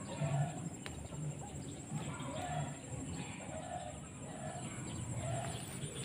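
White-breasted waterhen calling: a steady series of short, repeated call notes, a little more than one a second.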